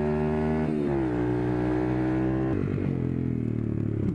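Single-cylinder 140cc pit bike engine, loud through its aftermarket exhaust, running at steady revs. The note dips briefly about a second in, then the revs fall away and the note turns lower and rougher past the middle as the bike comes off the throttle.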